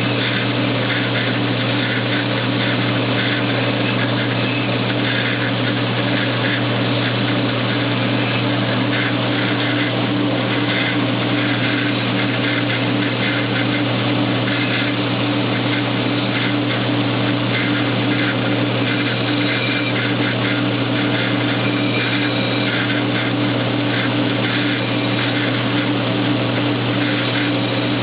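KMG belt grinder running steadily with a deep motor hum, while steel of a throwing knife is pressed to the belt, giving a grinding hiss that keeps waxing and waning as the edge is worked.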